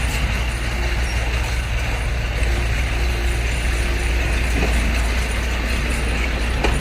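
Heavy diesel earthmoving machinery running steadily under load: a loud, even engine drone with a deep low end and a wash of mechanical noise above it.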